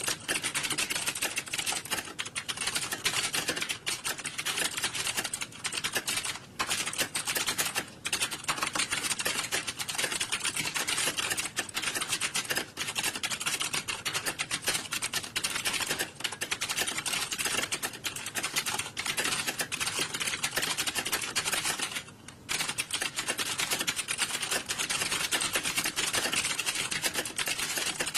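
Many computer keyboards being typed on at once, a dense, continuous clatter of key clicks with a brief lull about 22 seconds in.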